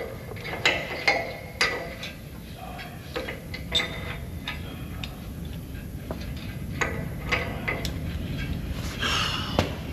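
Irregular metal knocks and clanks from work on a Case 850D dozer's track and track pin, over a steady low rumble.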